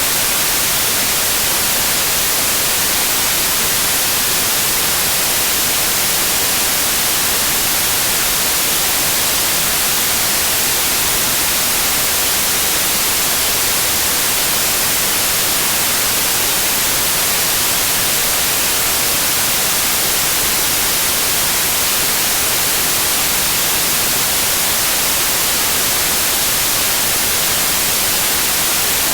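Steady electronically generated white noise: an even, unchanging hiss, brightest in the highs.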